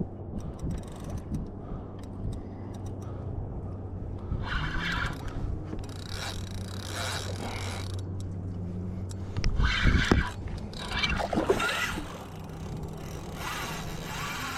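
Fishing gear worked against a hooked fish from a kayak, with several scraping, rustling bursts over a steady low hum. The loudest bursts come about ten and eleven and a half seconds in.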